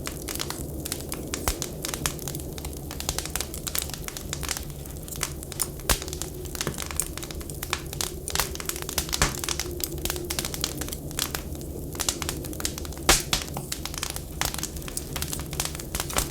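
Wood fire burning in a fireplace, crackling with frequent irregular sharp pops, the loudest about 13 seconds in, over a steady low rumble.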